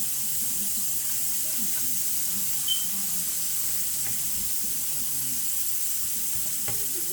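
Food sizzling steadily in hot oil in a non-stick pan: tomato and other ingredients frying. A short high-pitched squeak rises above it about a third of the way in, and a sharp click comes near the end.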